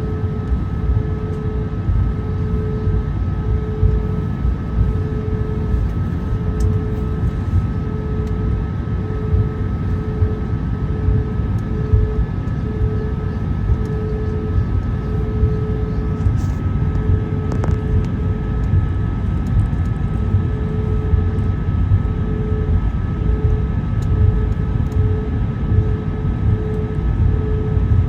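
Steady cabin noise of an Airbus A220-100 with its Pratt & Whitney PW1500G geared turbofans running: a low rushing roar with a couple of thin steady high tones over it and a mid-pitched tone that pulses on and off about once a second.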